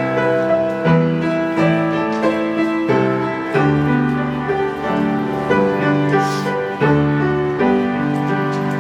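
Piano or keyboard playing slow, gentle chords, with a new chord struck about every second.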